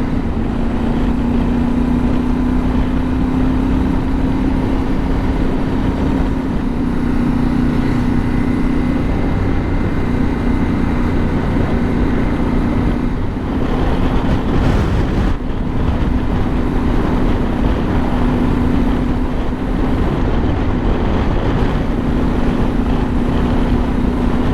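Yamaha Ténéré 700's parallel-twin engine running steadily at cruising speed while riding, under wind and road noise. A little past halfway the noise swells briefly.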